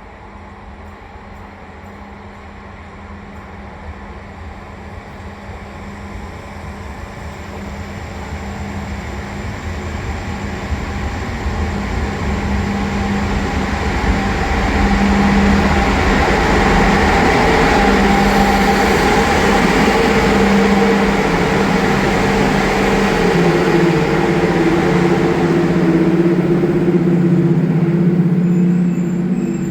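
A pair of Romanian 060-EA electric locomotives hauling a regional train draws in, growing louder over about fifteen seconds and then holding steady and loud. Under the rumble of the train runs a steady hum from the locomotives, and one tone shifts up in pitch about three-quarters of the way through.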